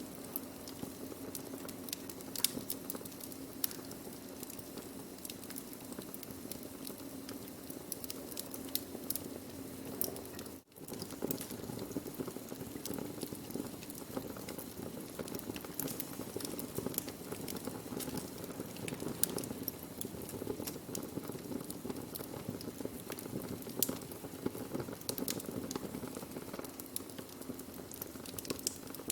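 Burning wood crackling steadily, with frequent sharp pops over a soft hiss; the sound drops out for an instant about ten seconds in.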